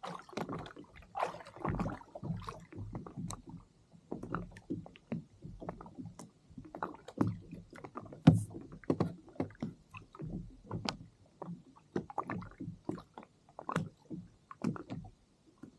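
Water slapping and knocking irregularly against a kayak's hull, in short uneven splashes and knocks several times a second.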